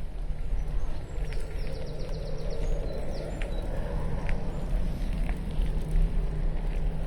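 Wind buffeting the microphone and road rumble from a moving bicycle, a steady low rumble with scattered light clicks. A quick run of short high chirps comes in about a second in.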